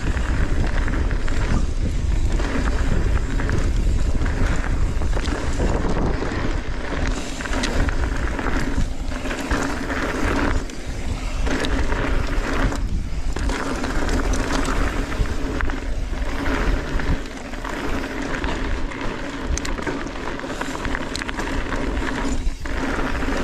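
Wind rushing over the microphone and tyres rolling on dry, loose dirt as a Transition Sentinel mountain bike is ridden fast down a jump trail, with several brief dips in the noise.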